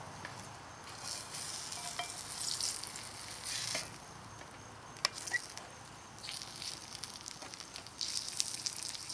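Biscuit-dough fry pie sizzling in butter in a skillet. The frying hiss swells and fades in patches as the pie is moved in the butter, with a sharp click about five seconds in.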